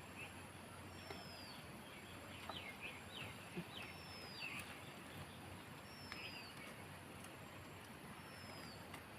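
Faint bird calls over steady background noise: a thin, high whistled note sliding down in pitch, repeated about every two and a half seconds, with a short run of quicker chirps a few seconds in.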